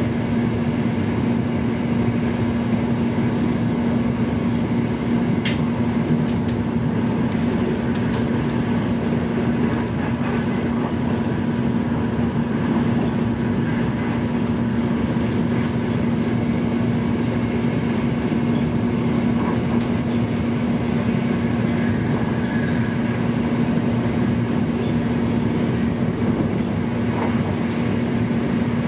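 High-speed train running at speed, heard from inside the passenger car: a steady rumble and rush with a constant low hum and a few faint ticks.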